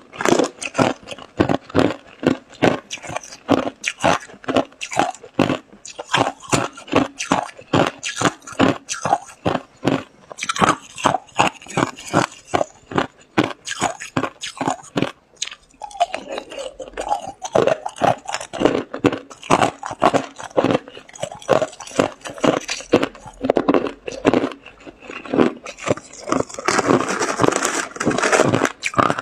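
Hard ice being bitten and chewed close to the microphone: a fast, steady run of crisp crunches, about two to three a second, with a short pause about halfway through.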